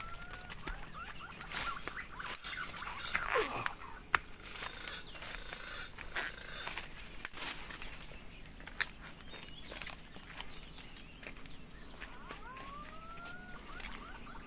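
Steady high-pitched insect drone, with a rising whistled bird call just at the start and again about thirteen seconds in, and scattered clicks and rustles.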